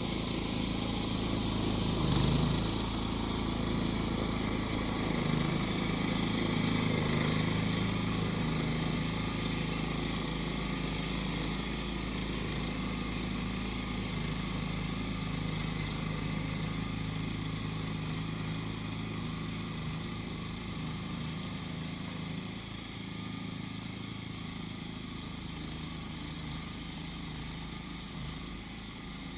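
Small engine of a grass-cutting machine running steadily under a steady high-pitched droning of cicadas. The engine grows a little quieter in the last third.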